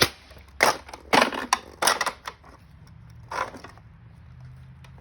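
Irregular sharp knocks and clatters of hard objects being handled: a quick run of them over the first two and a half seconds, one more a little past three seconds, and another pair right at the end.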